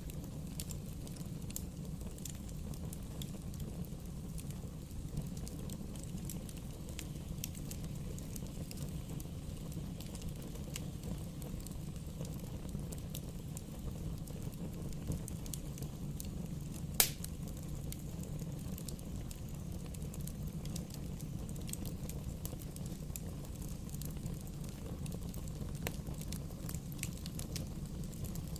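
Wood bonfire burning: a steady low rumble of flame with scattered crackles and pops of burning wood, and one sharp, much louder pop about two-thirds of the way through.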